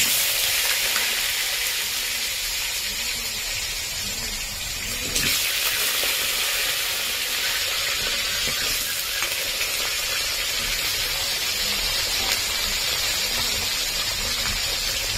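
Potatoes sizzling as they fry in hot oil in a pan, a steady hiss that gets a step louder about five seconds in.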